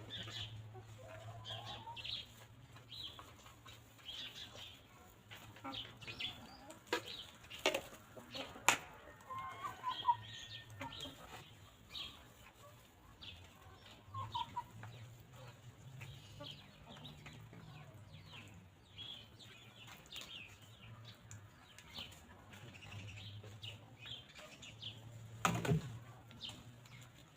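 Hens clucking softly now and then over frequent small-bird chirps, with a steady low hum underneath. A few sharp knocks stand out, the loudest near the end.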